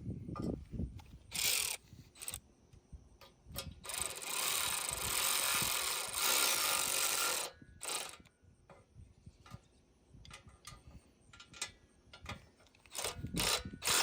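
A cordless power tool runs for about three and a half seconds near the middle, driving a fastener on the spare tire carrier, with scattered clicks and clanks of metal parts and tools around it.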